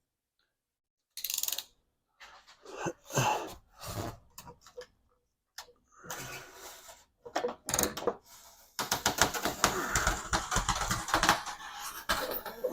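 Razor blade cutting through a sheet of foam board: separate scraping, squeaky strokes, then from about nine seconds in a dense run of rapid crackling as the blade drags through the foam.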